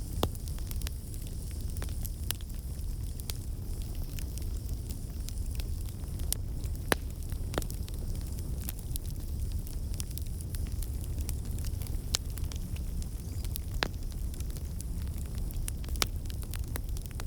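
Wood fire in a fireplace crackling, with a steady low rumble under a light hiss and sharp pops at irregular moments, a few seconds apart.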